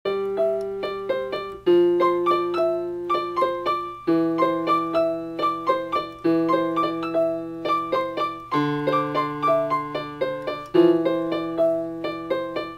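Solo piano music: a quick repeated broken-chord figure over held bass notes, the harmony changing about every two seconds. It stops abruptly at the end.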